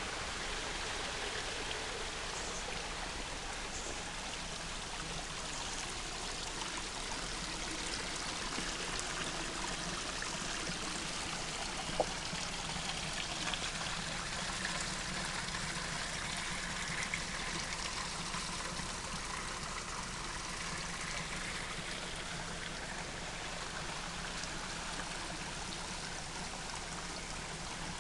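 Steady rushing of flowing water, like a stream, with one sharp click partway through.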